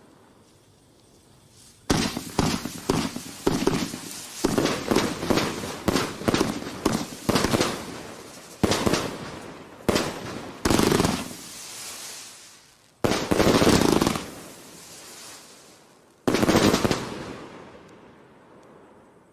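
Vivid Pyrotechnics 'Ziegelstein' firework cake firing: about two seconds in, a rapid volley of sharp shots starts, followed by four louder, longer bursts that each die away slowly.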